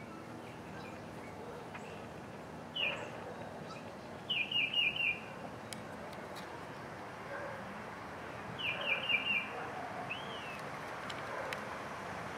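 A bird chirping in short, quickly falling notes over a steady hiss. There is one chirp about three seconds in, a quick run of four just after four seconds, another run of four near nine seconds, and a single rising-then-falling note just after ten seconds.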